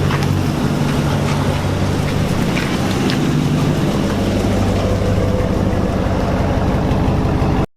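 A vehicle engine running steadily under a continuous rushing noise, with a low hum throughout; it cuts off suddenly near the end.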